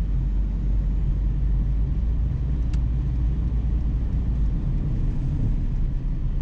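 Steady low rumble of a car's engine and road noise heard from inside the cabin while driving, with one short high squeak about three seconds in.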